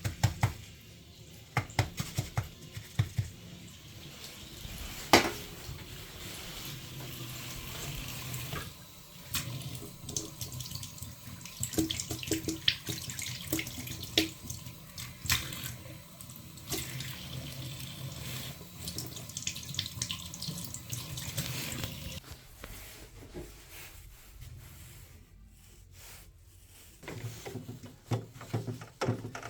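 Water running from a tap into a sink, with scattered knocks and clicks, as a clogged boiler condensate trap is washed out.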